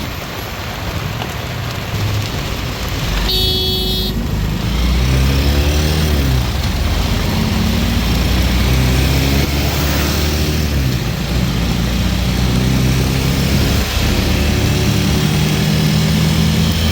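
Heavy rain falls steadily while motor vehicles drive past, their engines rising and falling in pitch as they pass and accelerate. A short horn toot sounds about three seconds in.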